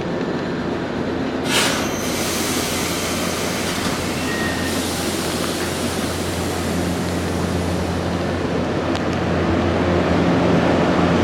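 Nankai electric train pulling out of the station: steady running noise with low tones, a short loud burst of noise about a second and a half in, and the sound building toward the end as the train picks up speed.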